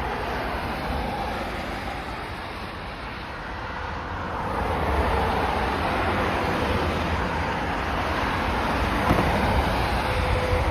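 Motor-vehicle noise: a steady low rumble that grows louder about halfway through.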